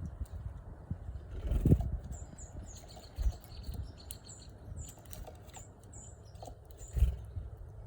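Small birds chirping: a quick run of short, high chirps. Two low thumps stand out, one near the start and one near the end.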